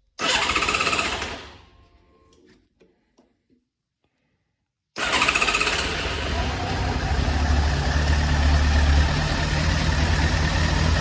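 1999 Yamaha YZF750R inline-four being started on choke while still warm: a first attempt comes in suddenly and dies away within about a second and a half, then after a pause it fires about five seconds in and keeps running with a steady low rumble. The owner takes the hard start for a flooded engine from using the choke on a warm motor.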